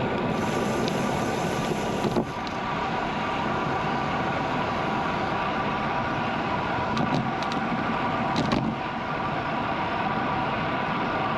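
Steady rush of wind and tyre noise from a bicycle riding along a road, with a few short clicks about seven and eight and a half seconds in.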